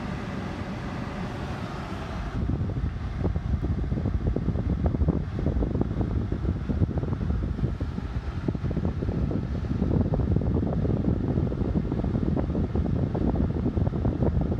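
Strong gusty wind buffeting the microphone, a rough low rumble that gets louder and choppier about two seconds in.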